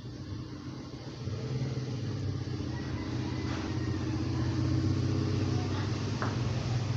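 Steady low mechanical hum, like a motor or engine running, growing slightly louder after the first second, with a single sharp click near the end.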